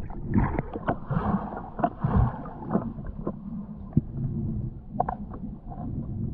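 Muffled water sloshing and churning, with scattered sharp clicks and knocks.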